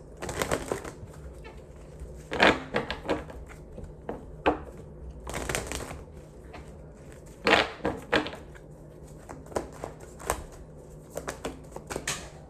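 Tarot cards being handled: irregular rustles, slaps and taps of cards, with a quick run of small ticks near the end.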